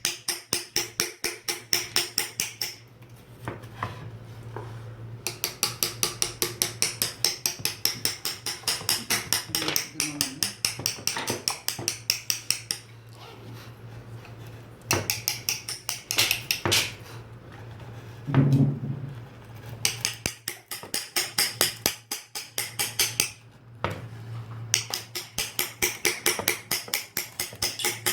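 Mallet tapping a carving chisel into wood for seogak lettering: quick, even strikes at about four or five a second, in runs of several seconds broken by short pauses.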